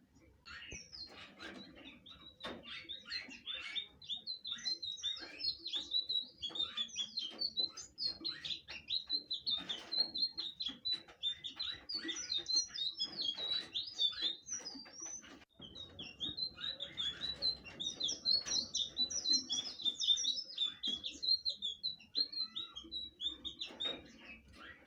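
Blue flycatcher (sikatan biru) singing continuously: a fast run of high chirps and warbled trills, with a brief break about two-thirds of the way through.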